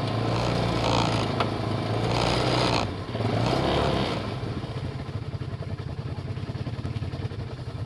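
Off-road vehicle engine running hard, then easing off about four seconds in to a quieter, steady idle.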